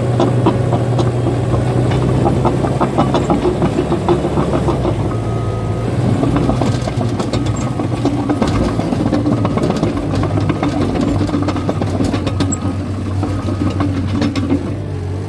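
Caterpillar bulldozer's diesel engine running steadily under load, with its steel tracks making a dense, rapid clanking and rattling. The engine note drops slightly about three seconds in.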